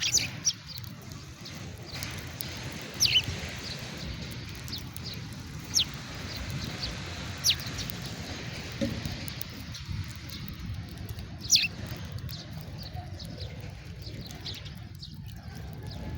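House sparrows chirping: scattered short, sharply falling chirps, a few louder ones standing out, over a steady low rumble.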